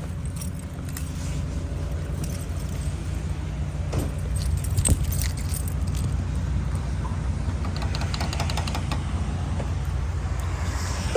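Metallic clicks and a jingle, like keys or fuel-pump hardware being handled, over a steady low rumble: a few sharp clicks about four to five seconds in, a rattling jingle about eight seconds in, and a knock near the end.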